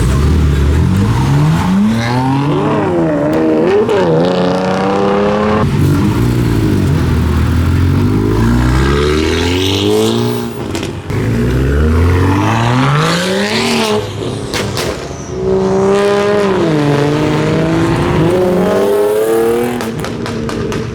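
Car engine revving hard over and over, its pitch climbing and then dropping in several long sweeps.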